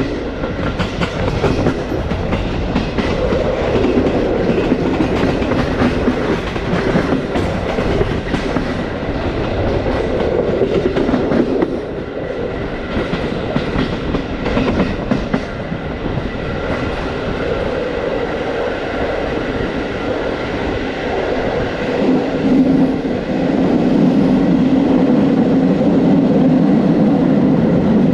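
Passenger train carriage running along the track, heard on board: wheels clicking and knocking over rail joints with the coach rattling. Near the end a steadier, louder low drone takes over and the clicks thin out.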